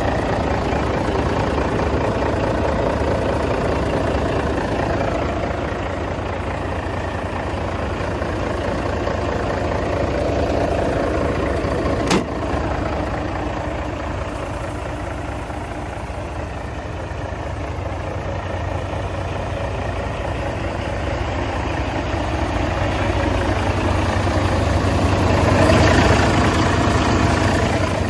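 Mercedes-Benz SK 2527 heavy truck's diesel engine idling steadily. There is one sharp click about twelve seconds in, and the engine gets louder for a few seconds near the end.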